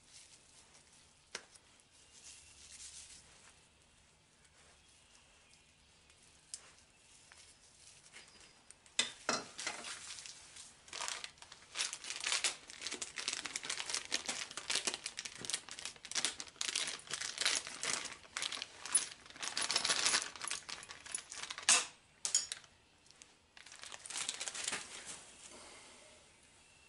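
Plastic packaging crinkling and tearing as it is handled and pulled apart, in a long busy stretch of crackling from about nine seconds in, with a shorter bout near the end; a few faint handling clicks come before it.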